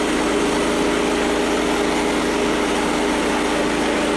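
Frontier OS27 sawmill's small engine running steadily at a constant pitch.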